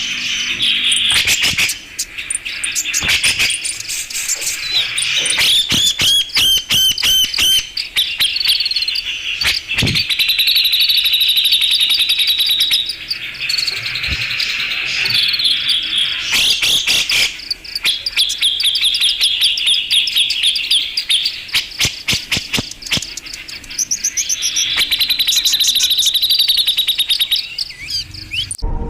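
Cucak jenggot (grey-cheeked bulbul) lure-call recording: dense, continuous chattering calls and rapid rattling trills, dotted with many sharp clicks. It cuts off abruptly just before the end.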